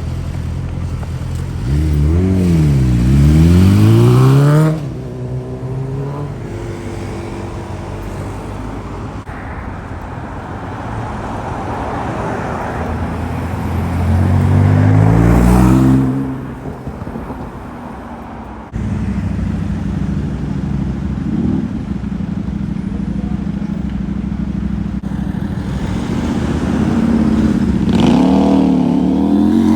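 Sports car engines revving and accelerating in street traffic: three separate bursts of rising engine pitch, the loudest around the middle, between stretches of steady traffic noise, with abrupt changes from one stretch to the next.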